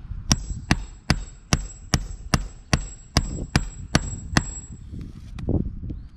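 Hammer striking about eleven times in an even rhythm, two or three blows a second, on a roof during a shingle repair attempt, then a few softer knocks.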